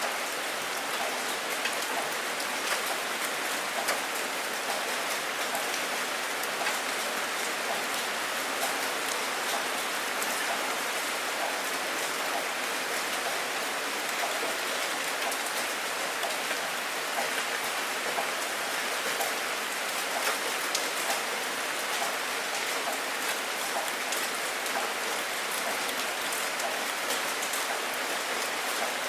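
Steady rain falling, a dense even hiss with many small droplet ticks hitting a surface.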